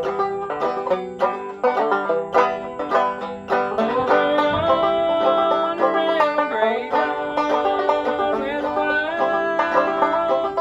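A 1913 Fairbanks/Vega Tubaphone banjo picking a tune, joined about four seconds in by long held notes that slide in pitch.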